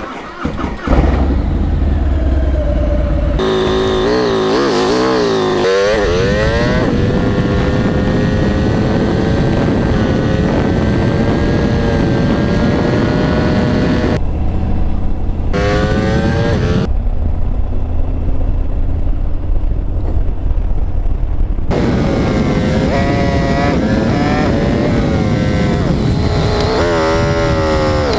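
Motorcycle engine under way, climbing in pitch as it accelerates through the gears several times, with a steady cruising stretch in between and a low rumble of wind and road underneath.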